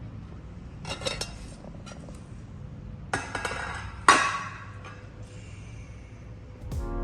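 Crockery and cutlery clinking in a few short clatters over a low background rumble, the loudest about four seconds in.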